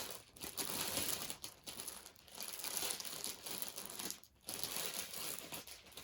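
Small plastic bags of diamond-painting drills crinkling as they are handled and packed back into a box, with a few brief pauses.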